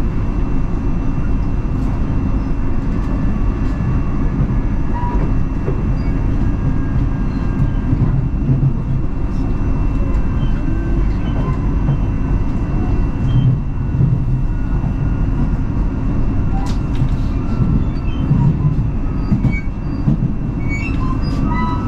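Electric commuter train running along the line, heard from inside the carriage: a steady rumble of wheels on the rails with faint ticks and a thin steady whine.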